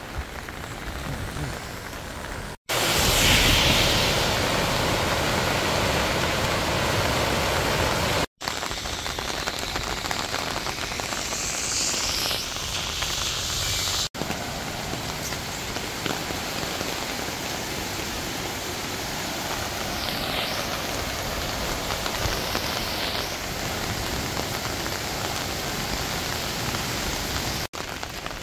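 Steady rushing hiss of rain and flowing floodwater. It is broken by brief dropouts where short clips are joined, and is loudest in the stretch after the first dropout.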